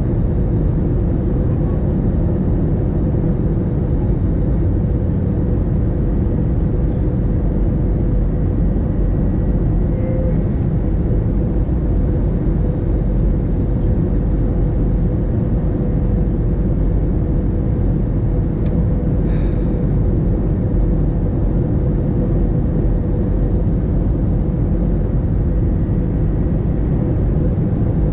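Steady cabin noise of an Airbus A321 airliner on approach: a low rumble of engines and airflow with a steady hum on top.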